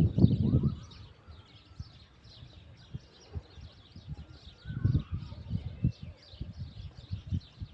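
Many small birds chirping continuously in a dense, high twitter, with low rumbling bursts near the start and again about five seconds in.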